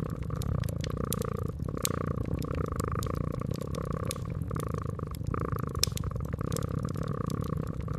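A cat purring steadily in slow in-and-out cycles, over a wood fire crackling with sharp, irregular pops.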